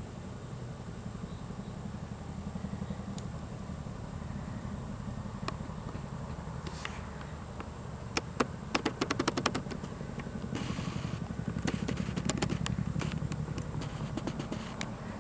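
Wood bonfire burning: a steady low rumble, with scattered sharp crackles and pops that come thickest about eight to ten seconds in.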